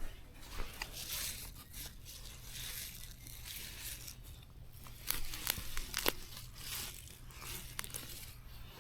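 Rustling and tearing with scattered sharp snaps, the snaps clustering about five to six seconds in.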